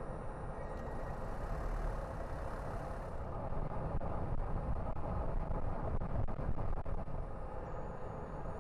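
A car driving along a road: a steady rumble of engine and tyre noise.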